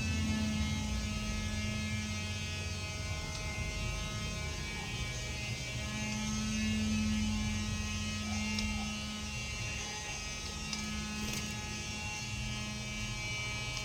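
Steady electrical hum with a buzzing edge, swelling slightly about six to eight seconds in.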